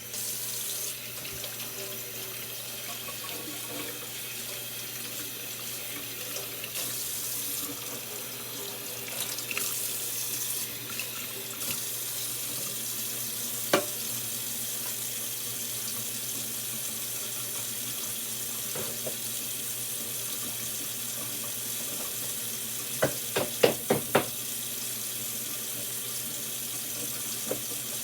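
Water rushing steadily, with a sharp clink about 14 seconds in and a quick cluster of clinks near the end.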